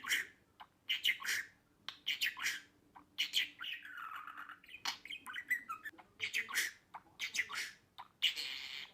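Budgerigar chirping and chattering: a run of short, high squawky calls about one a second, with a longer warble about four seconds in.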